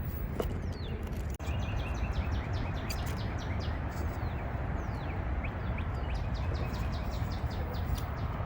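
Birds chirping in short quick notes and falling calls over a steady low rushing noise.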